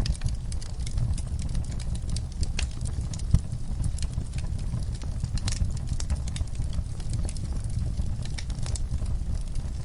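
Wood fire crackling in a fireplace: irregular sharp pops and crackles over a steady low rumble of the flames, with one louder pop a little over three seconds in.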